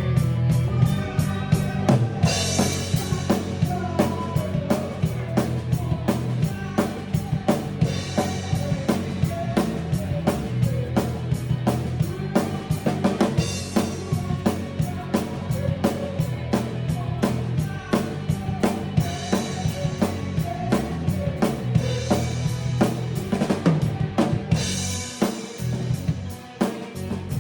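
Drum kit played in a steady rock groove on kick and snare, with cymbal crashes every few seconds, over a band backing track with sustained bass.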